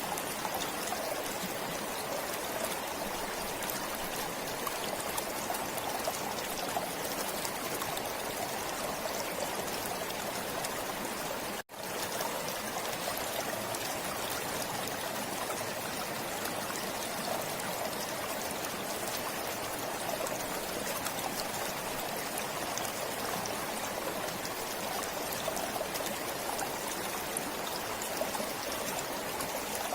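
Stream water flowing and trickling steadily, with a momentary cut-out about twelve seconds in.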